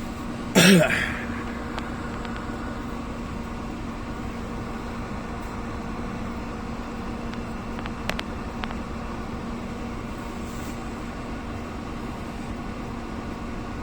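Steady engine hum of a vehicle running. About half a second in there is one brief loud sound with a shifting pitch, and around eight seconds in there are a few sharp clicks.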